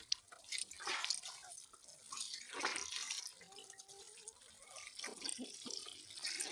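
Water splashing and dripping in irregular spurts, like water running and spattering in a sink.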